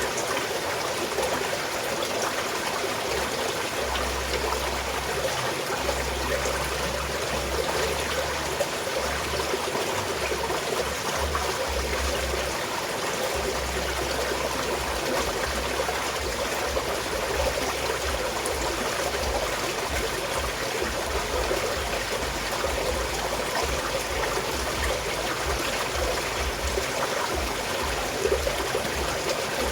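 Small mountain stream flowing and trickling steadily, with a continuous babble of running water.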